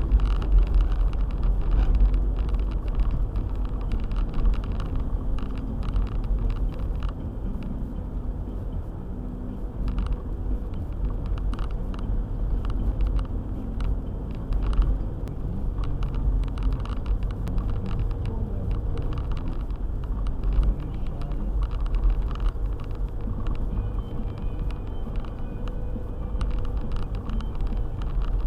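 A car driving: the steady low rumble of the engine and the road, with many faint ticks over it.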